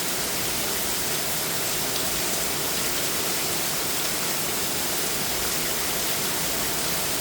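Torrential rain pouring down in a steady, dense hiss, with water streaming off in a sheet like a waterfall.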